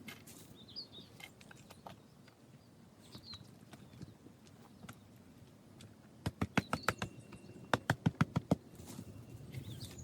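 Two quick runs of sharp knocks, about six or seven a second, in the second half, the first lasting about a second and the second a little shorter, with birds chirping now and then.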